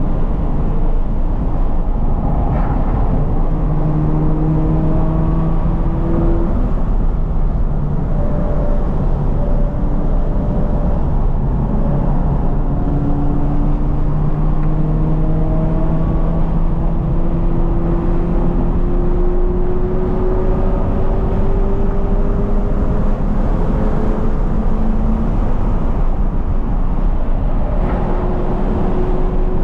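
2020 Toyota 86's flat-four engine with a Corsa cat-back exhaust, pulling hard on track. The engine note drops about a third of the way in, then climbs steadily for about ten seconds as the car accelerates, over a heavy steady low rumble.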